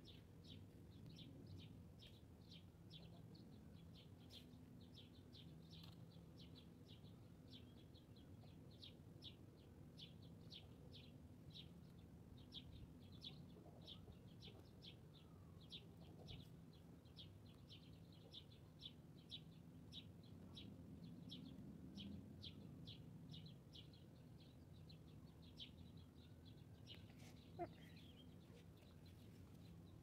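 Bird chirping faintly and steadily, a short high chirp about twice a second, with fainter arching notes beneath. One louder sharp sound stands out near the end.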